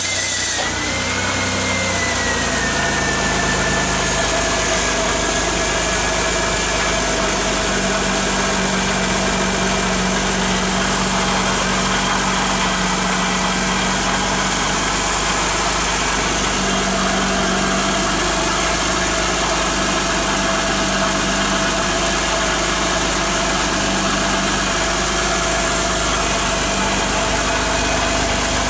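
Chrysler V6 engine idling steadily just after starting, its accessory drive belt running without a squeal now that cornstarch has been dusted onto the pulleys to cure the squeal from the wet belt. A faint high whine eases lower in pitch over the first few seconds as the idle settles.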